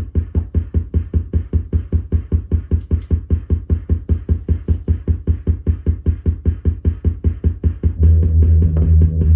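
Electronic synthesizer jam with drum-machine beats: a fast, even pulsing bass pattern of about six pulses a second, joined by a held deep bass note about eight seconds in.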